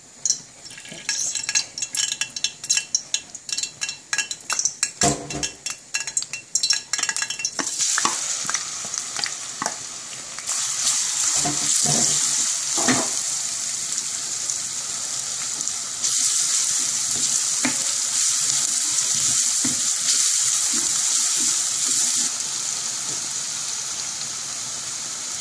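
Hot vegetable oil in a wok crackling and spitting in sharp pops, then a steady sizzle that grows louder about eight and ten seconds in as finely chopped garlic goes into the oil. A wooden spoon stirs and scrapes through the frying mixture, with a few knocks against the pan.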